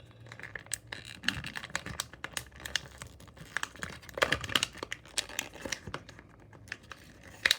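Packaging of a diecast toy car being torn open by hand: plastic blister and cardboard crinkling and tearing in irregular crackles, with louder rips about a second in, around four seconds in and near the end.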